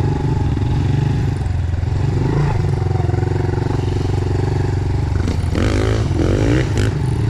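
Dirt bike engine running steadily on the trail, with a couple of quick rises in revs near the end.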